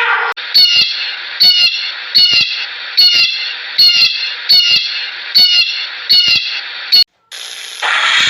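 An animal calling in a steady series of about nine short, sharp calls, a little more than one a second, over a constant hiss. The calls cut off suddenly near the end and a different sound begins.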